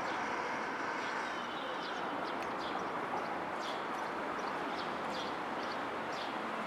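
Small birds chirping, many short downward-sweeping chirps scattered throughout, over a steady background noise.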